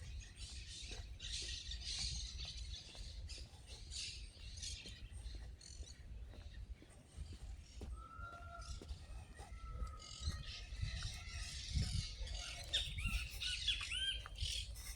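Birds calling and chirping outdoors: a dense high chatter through the first half, a held whistled note about eight seconds in, and a quick run of clear chirps near the end, over a low rumble.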